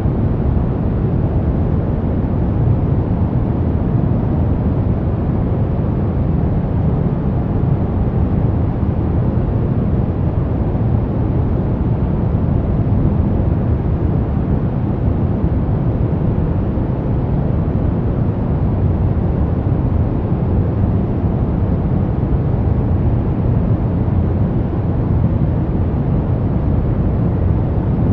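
Steady brown noise: a continuous deep rumbling hiss, strongest in the bass and fading toward the treble, with no changes or events.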